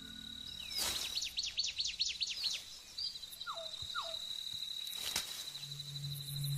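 Tropical forest ambience: an insect trilling steadily at a high pitch, a bird calling a quick run of about ten chirping notes, then two short falling whistles. A low, steady music tone comes in near the end.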